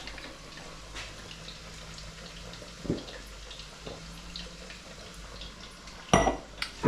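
Battered chicken bhajis deep-frying in oil: a steady low sizzle with small scattered crackles. A short sharp clatter comes about six seconds in, with another just before the end.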